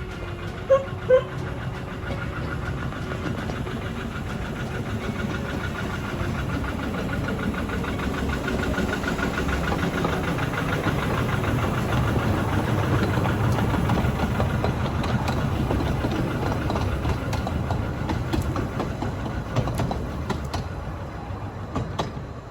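A train on the 15-inch gauge Ravenglass & Eskdale Railway running past, growing louder to about the middle and then easing off. Two short, sharp toots come about a second in.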